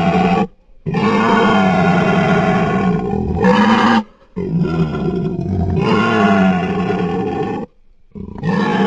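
Designed creature call for an extinct tapir, made from processed Hercules beetle sounds. It is a run of long, loud, pitched animal-like calls that waver up and down, each a few seconds long, with short breaks about half a second in, about four seconds in and near the end.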